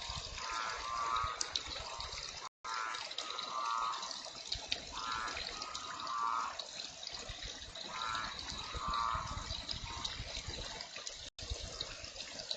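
Heavy rain falling steadily. A short pulsed call repeats through it in pairs, every two seconds or so.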